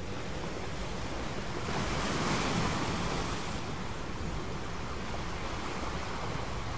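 Recorded ocean surf washing steadily, with one wave swelling and breaking about two seconds in, then ebbing away.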